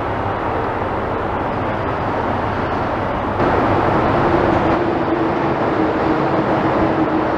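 Heavy demolition machinery running steadily, a continuous engine rumble with a low hum, stepping up louder about three and a half seconds in.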